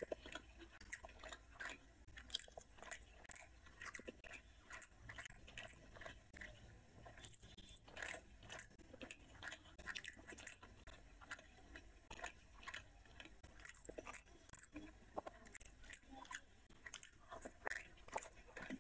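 A person chewing and biting syrup-soaked gulab jamun close to the microphone. Quick, irregular mouth clicks come several times a second.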